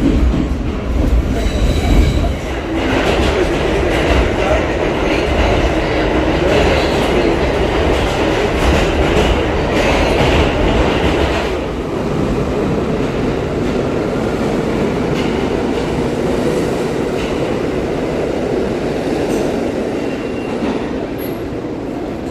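New York City subway train running on the tracks. A heavy low rumble fills the first couple of seconds, then a continuous rattle with high wheel squeals through the first half, settling into a steadier, slightly quieter run after about twelve seconds.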